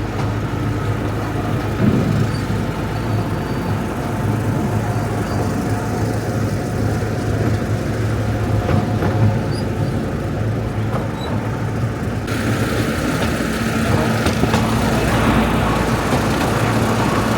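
Small narrow-gauge tourist train running steadily, a continuous low engine drone with rumbling running noise.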